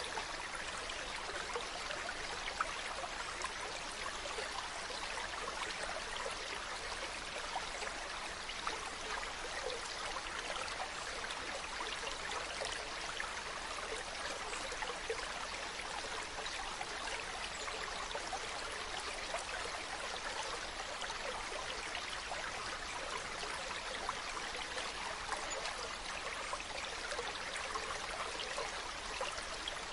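Mountain stream running steadily over rocks, with a constant rush of water and small splashes and trickles.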